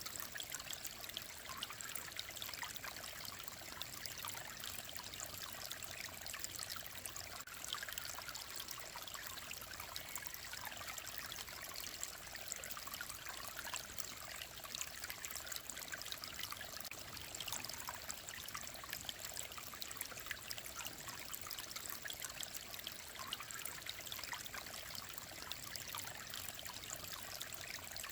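Mountain-valley stream flowing steadily, with a constant trickling and babbling of water.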